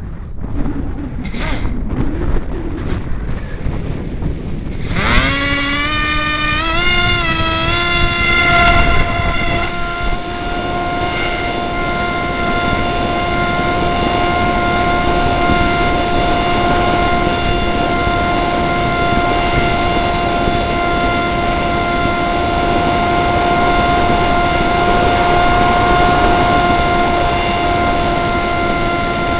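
Dynam Hawksky's electric motor and propeller spooling up in steps about five seconds in, then holding a steady high whine at throttle, with wind buffeting the microphone throughout.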